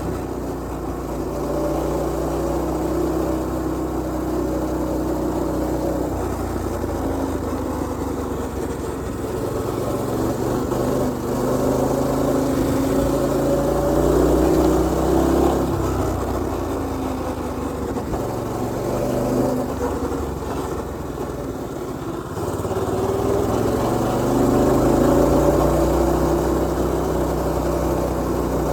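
Predator 212cc single-cylinder four-stroke engine of a mini bike running while riding, its pitch rising and falling several times as the throttle is opened and eased off.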